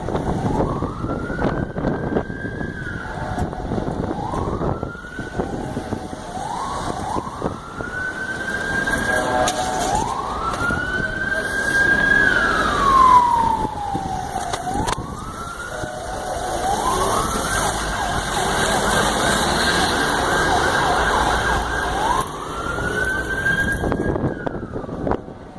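Emergency-vehicle siren wailing over traffic noise. Its pitch rises repeatedly to a held high note, falls slowly once near the middle, then climbs again.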